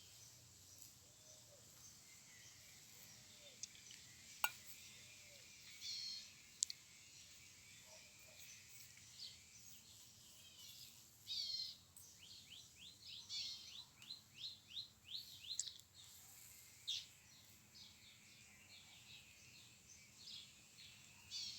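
Birds chirping: scattered high chirps, with a quick run of short descending notes, several a second, about twelve to fifteen seconds in. Two sharp clicks stand out early on.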